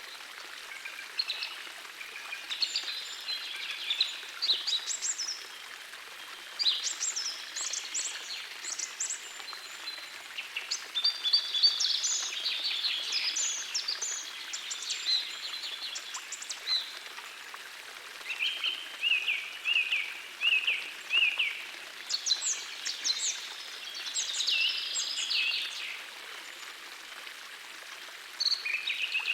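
Songbirds singing in phrases that come and go every few seconds over the steady rush of a gentle forest stream, with a run of short repeated chirps about two-thirds of the way through.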